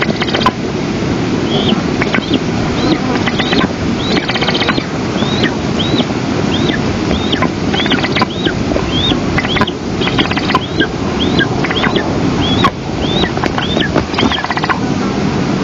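Eastern imperial eagle chick giving a long run of short, high, arched begging calls, about two a second, at feeding time. Steady wind rumbles on the microphone underneath, with a few brief crackles.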